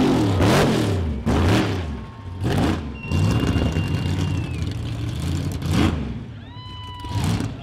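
A car engine revving hard in repeated blips, its pitch shooting up and dropping back several times. A brief high horn-like tone sounds near the end.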